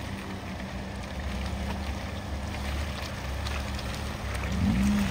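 An off-road SUV's engine running at low revs while it crawls over rough ground, with scattered knocks and rattles. Near the end the engine note rises and wavers.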